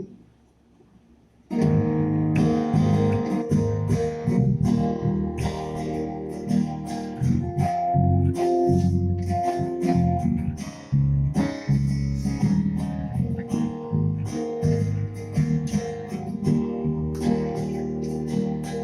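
Guitar strumming chords in a steady rhythm, starting about a second and a half in after a near-quiet moment.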